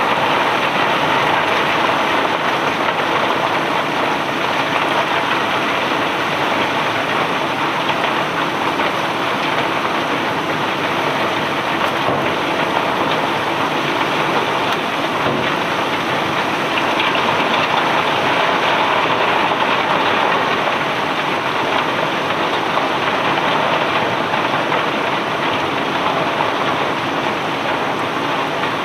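Loose cobblestones pouring in a continuous stream, a dense, even rattling hiss that swells a little past the middle.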